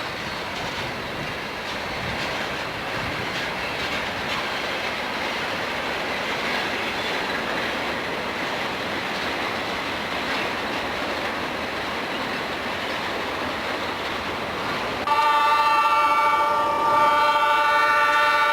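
A freight train rolling past with a steady rush and clatter of steel wheels on rail, growing slowly louder. About fifteen seconds in, a locomotive's multi-note air horn sounds suddenly as a loud, held chord that continues to the end.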